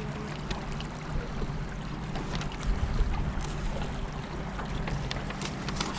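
Boat motor running steadily on the river, a low even hum under the rush of water and wind noise.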